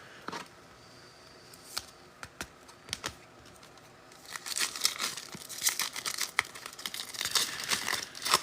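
Foil wrapper of a football trading-card pack crinkling as it is torn open. A few light clicks come first, then steady crinkling and tearing from about halfway in.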